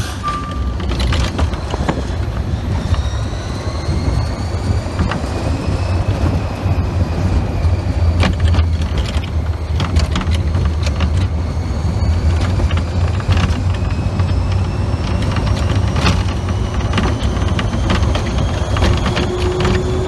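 Test Track ride vehicle running along its track: a loud, steady low rumble with several high whines that rise slowly in pitch as it gathers speed.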